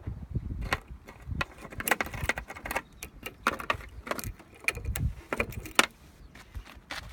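Irregular clicks, knocks and low thumps from something being handled by hand, with no engine running.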